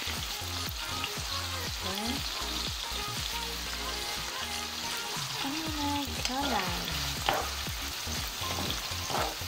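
Chicken pieces sizzling in hot oil in a nonstick wok. A wooden spatula stirs and scrapes them against the pan.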